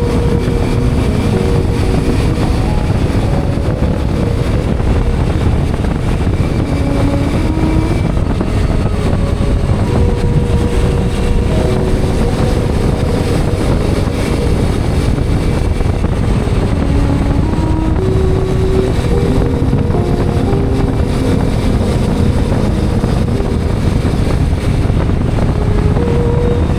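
Hero Xpulse 210's 210 cc single-cylinder engine running while the motorcycle is ridden, its pitch stepping up and down every second or so as the revs change, over a steady low noise of the ride.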